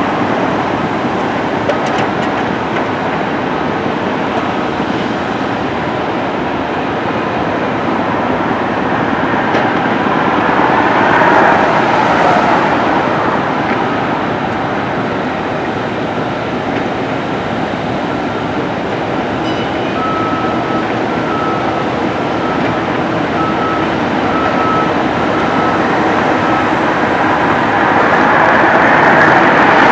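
Steady running noise of a moving train. It swells a little about a third of the way in and again near the end, with a faint, broken high squeal around two-thirds of the way through.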